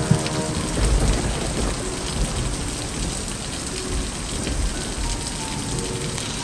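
Heavy rain falling steadily and pattering, with water pouring off the edge of a corrugated metal shed roof. A low rumble comes in about a second in.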